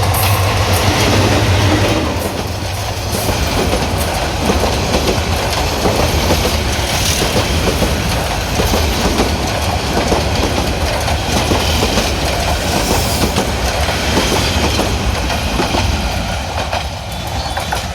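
Express passenger train running past on the rails, its wheels clattering steadily over the track with a dense run of clicks and rumble throughout.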